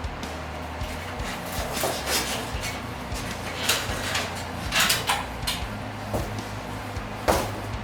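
Scattered clicks, taps and knocks of hands-on work, irregularly spaced, with the sharpest knocks a little before the five-second mark and near the end, over a steady low hum.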